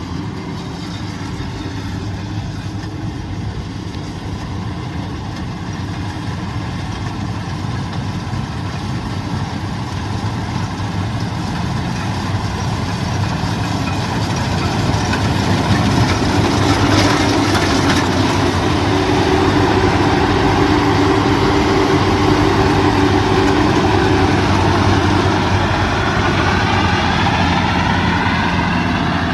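Diesel engine of a rice combine harvester running steadily, growing louder as it comes closer. From about halfway a higher machine whine joins the engine drone.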